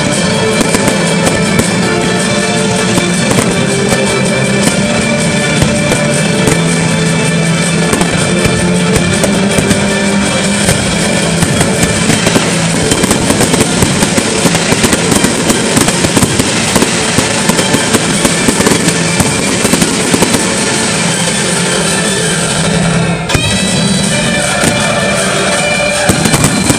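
Fireworks display: aerial shells bursting in a dense run of bangs and crackles, with music playing throughout.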